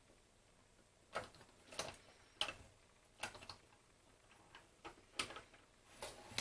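Irregular small clicks and taps of plastic telephone parts being handled during reassembly, about nine in a few seconds, unevenly spaced.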